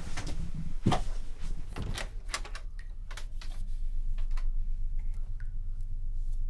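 A person moving through a room and out through a doorway: irregular light knocks and clicks of footsteps and door handling, over a steady low hum.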